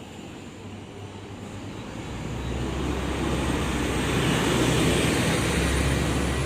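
A vehicle passing close by, growing steadily louder from about two seconds in, with a deep rumble and a faint high whine that rises slowly in pitch.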